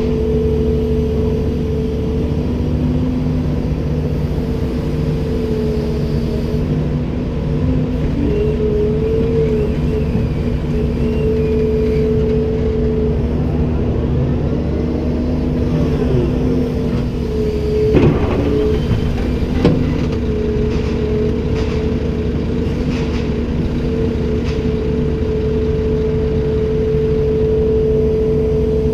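Komatsu PC290-10 excavator's six-cylinder diesel engine running steadily, its pitch wavering for several seconds in the middle as it works. Two sharp knocks sound about a second and a half apart, roughly two thirds of the way through.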